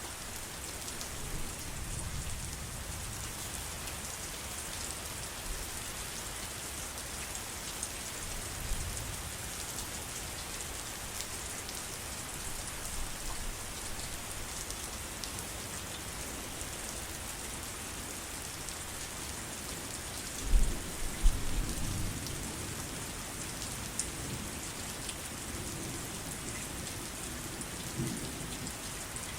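Steady heavy rain falling, with a low rumble of thunder about two-thirds of the way through and a fainter one near the end.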